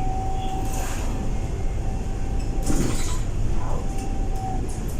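Scania K230UB single-deck bus heard from inside while running: a constant low engine and drivetrain rumble with a thin steady whine. The whine fades out for a moment near the middle, and there are brief rattles about one and three seconds in.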